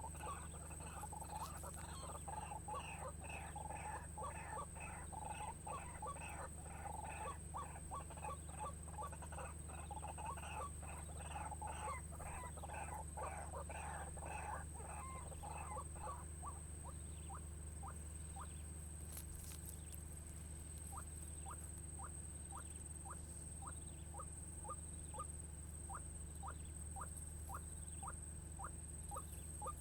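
White-breasted waterhen calls: a dense run of rapid, repeated notes for roughly the first half, then single short falling notes at about two a second.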